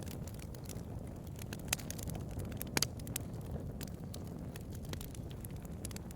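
Bonfire burning with a steady low roar, broken by irregular sharp crackles and pops of the wood, a few louder snaps among them.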